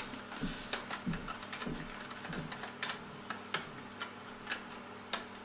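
Light, irregular clicks and taps, several a second, from a vacuum cleaner that is not running at full power, heard over a faint steady hum.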